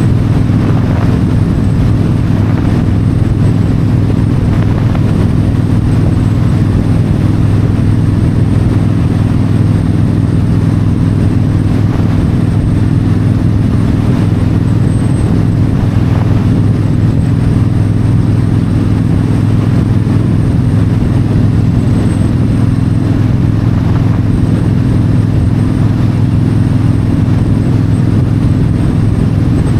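Yamaha V Star 1300 V-twin engine running steadily at highway cruising speed, with wind and road noise.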